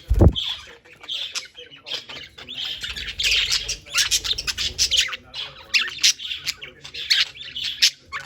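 Budgerigars chattering: a dense run of rapid chirps, clicks and squawks. A short low thump sounds right at the start.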